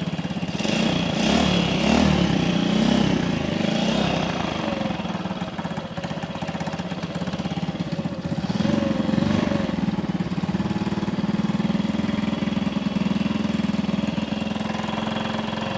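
1964 Honda C200's small single-cylinder four-stroke engine running on a freshly swapped spark plug. It revs up briefly about a second in and again near nine seconds, and idles steadily in between and afterwards.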